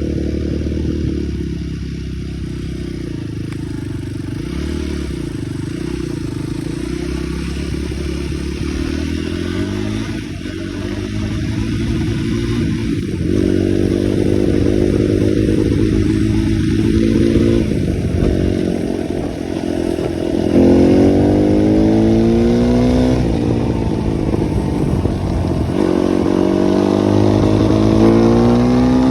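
Dirt bike engine running under load, revving up in repeated rising climbs as it pulls through the gears, with a steady rumble and rattle underneath.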